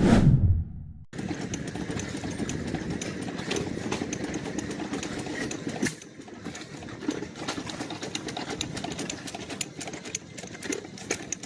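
A whoosh that fades out about a second in, then engines running, dense with irregular clicking and knocking.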